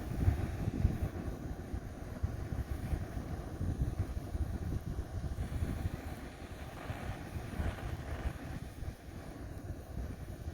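Wind buffeting the microphone outdoors: an irregular, gusting low rumble with no steady engine tone.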